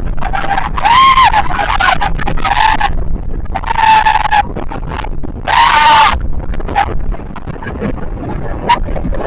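People on a banana boat ride screaming in long, high shrieks, about four times, over a steady low rumble.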